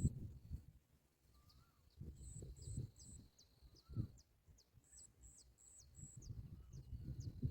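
Small birds chirping: short, very high-pitched notes in quick runs of three or four, with thin rapid sweeps, over low rumbling noise that comes and goes and a thump about four seconds in.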